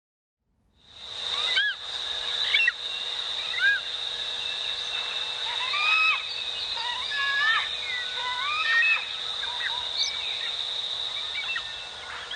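Several birds calling at once with short, arching whistled notes, over a steady high thin tone. The sound fades in just under a second in.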